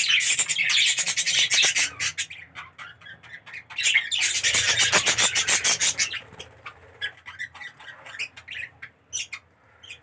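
A flock of budgerigars squawking and chattering in rapid, high-pitched calls, in two loud bursts: one at the start and another about four seconds in, with scattered single calls between and after.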